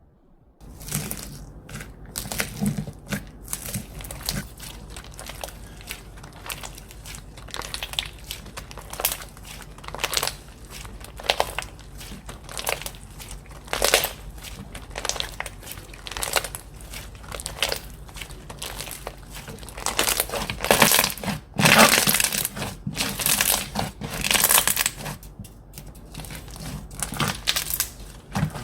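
Slime being squeezed and stretched by hand, giving a rapid run of small crackles and crunches that is densest and loudest about twenty to twenty-five seconds in.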